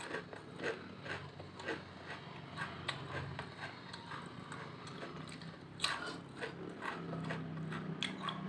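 Potato chips being crunched and chewed close to the microphone: a quick, irregular run of crisp crackles and snaps.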